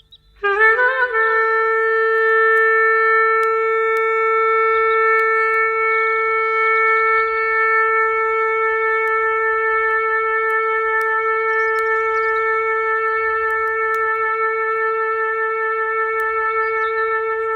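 A single long clarinet note that starts about half a second in with a brief waver, then is held steady at one pitch.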